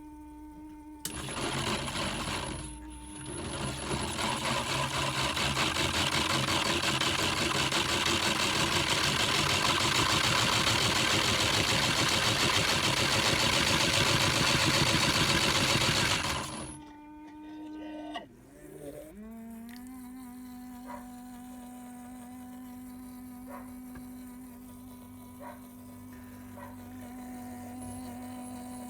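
Small electric motors of a modified Miele toy washing machine buzzing during a pump drain test. There is a loud stretch of rushing noise for about fifteen seconds while the water pump drains, then a steadier, lower motor hum for the last ten seconds, with a few light clicks.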